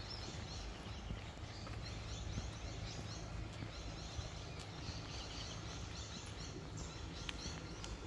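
Small birds chirping in a busy, continuous chatter of short repeated calls, over a steady low rumble.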